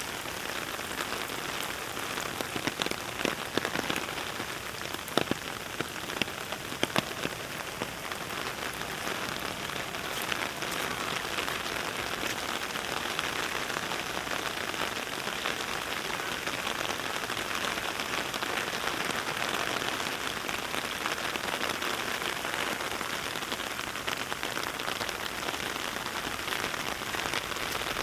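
Heavy, steady rain falling, heard up close, with a few sharper, louder drop taps a few seconds in.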